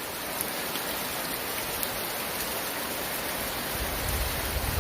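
Heavy rain falling steadily, a dense even hiss of drops, with a low rumble building near the end.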